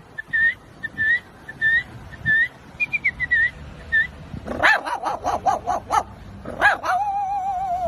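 A person imitating a dog with the mouth: a run of about eight short, high dog-like calls, then a quick string of yapping barks about four and a half seconds in, and one long drawn-out call near the end that falls slightly in pitch.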